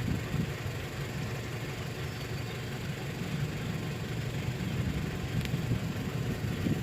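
Car engine idling steadily, a low rumble with an even hiss over it.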